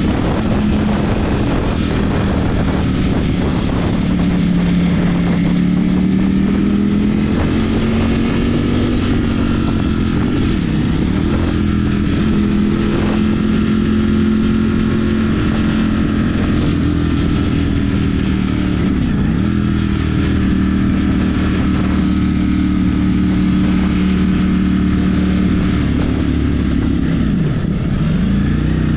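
Ducati motorcycle engine running at a steady cruising speed, its pitch drifting gently up and down, with wind and road noise. The pitch dips briefly three times.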